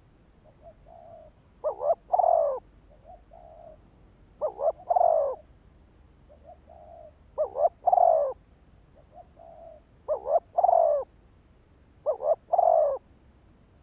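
Spotted dove cooing in its territorial song. It gives five repeated phrases, each a soft lead-in note followed by two or three loud coos, one phrase about every two and a half seconds.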